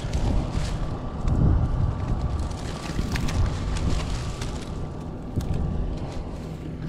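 Wind buffeting the microphone outdoors as a gusty low rumble that swells and fades, with a faint steady hum underneath.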